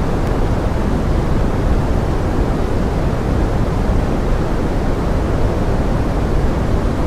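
Steady pink noise: an even, unbroken rain-like hiss, heavier in the low end, used as a forest-rain sleep and focus ambience.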